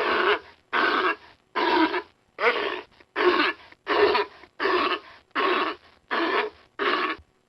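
An animal calling ten times in a steady rhythm, each call about half a second long, with short silences between.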